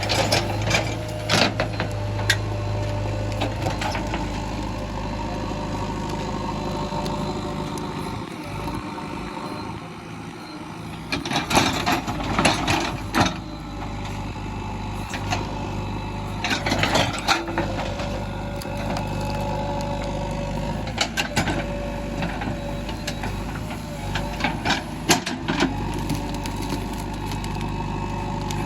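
JCB 3DX backhoe loader's diesel engine running steadily, dropping off a little about a third of the way in before picking up again. Short bursts of clattering and knocking break in several times, loudest about halfway through.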